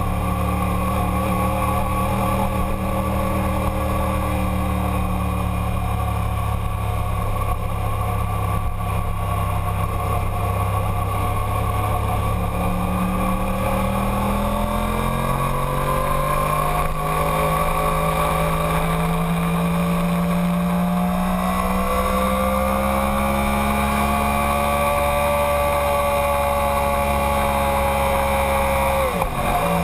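Yamaha sportbike's inline-four engine heard onboard at speed, with wind noise. The engine note climbs slowly through long stretches under throttle, and drops sharply near the end as the rider shuts off.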